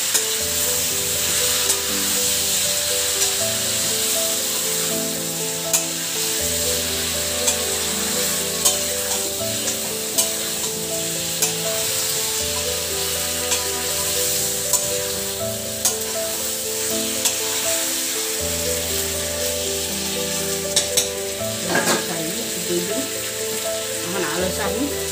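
Chicken masala frying and sizzling in a steel kadai while a metal spatula stirs and scrapes it, with sharp clicks of the spatula knocking the pan. Soft background music with slow sustained chords plays underneath.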